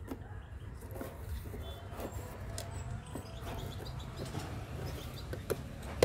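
Faint chirping of small birds in an aviary, with scattered light clicks and a sharper knock about five and a half seconds in.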